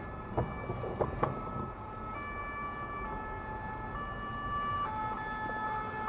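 Electronic siren or alarm sounding in steady held tones that step between pitches every half second to a second, with a few sharp knocks in the first second and a half.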